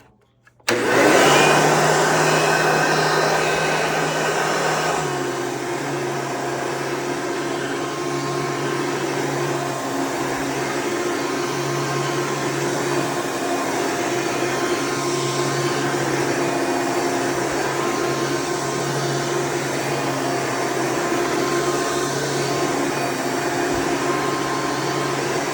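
1998 Hoover Preferred upright vacuum cleaner switched on under a second in, its motor spinning up loudly and then running steadily, settling a little lower in pitch about four seconds later.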